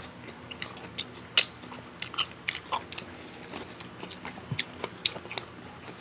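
A person chewing and biting food in a mukbang, with irregular sharp mouth clicks and smacks about two or three a second.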